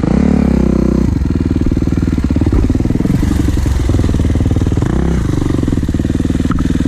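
Kawasaki KX450 dirt bike's single-cylinder four-stroke engine being ridden, its revs rising and falling several times.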